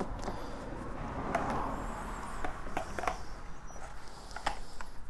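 A few light clicks and knocks, spaced irregularly about a second apart, as plastic parts of an electric pressure washer are handled and pushed into place.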